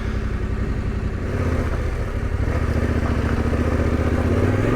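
Motorcycle engine running at low revs, a steady low rumble that picks up slightly about a second in and eases off at the end.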